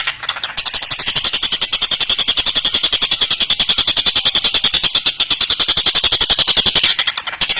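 Tengkek buto kingfisher giving a loud, very fast rattling chatter, a run of many sharp notes each second. It breaks briefly just after the start and again near the end before resuming.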